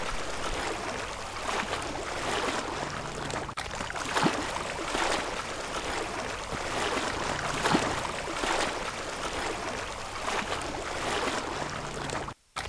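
Sea water washing and splashing along the hull of a sailing schooner under way, a steady rush with a splash every second or two.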